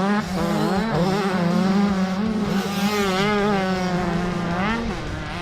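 Dirt bike engine running hard at high revs, its pitch wavering with the throttle, rising briefly and then dropping away near the end.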